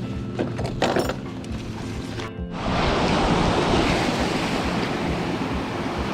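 Background music for the first couple of seconds, then a sudden cut to rough ocean surf breaking on a beach, with wind on the microphone.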